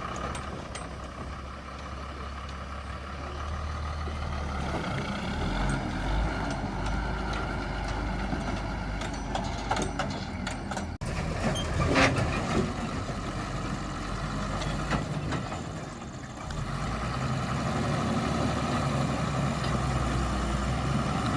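Engine of a borewell drilling rig truck running steadily, with the sound seeming to cut and resume about halfway through.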